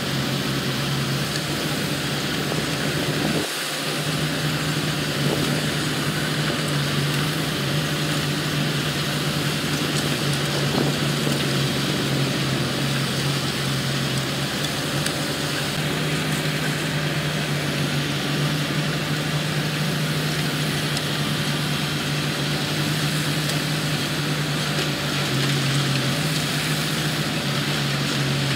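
Diesel engine of heavy construction machinery running steadily, with one brief drop in level about three and a half seconds in.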